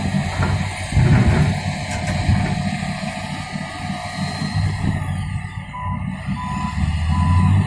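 Truck engine running with a low rumble, and near the end its reversing alarm starts beeping, a steady single-pitched beep about one and a half times a second.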